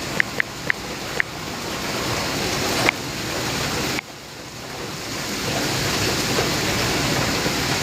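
Heavy rain pouring in gusts, with wind buffeting the microphone. The hiss swells, drops off suddenly about four seconds in, then builds again. A few short, sharp ticks come in the first three seconds.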